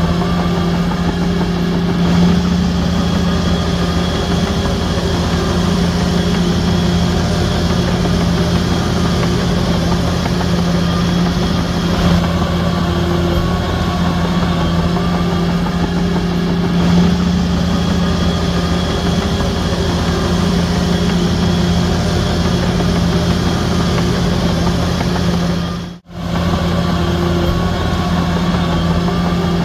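Shantui DH17C3 bulldozer's heavy diesel engine running steadily at a constant pitch while pushing dirt, with a sudden momentary break near the end.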